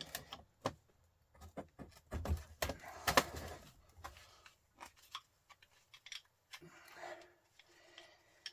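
Hand tools clicking, knocking and scraping against the metal and copper parts of a truck starter motor being pried apart, in irregular short bursts.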